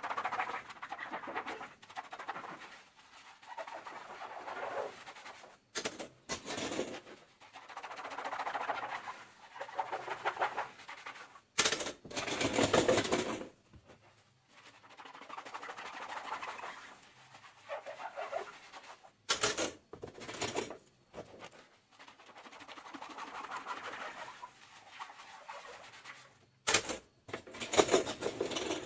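Dishes being hand-washed with a soapy sponge: scrubbing and squishing in stretches of a few seconds, broken about every seven seconds by a short, louder hissing burst.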